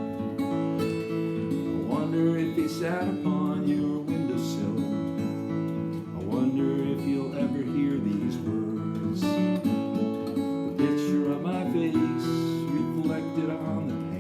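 Acoustic guitar strummed and picked, an instrumental passage of a folk song with no voice.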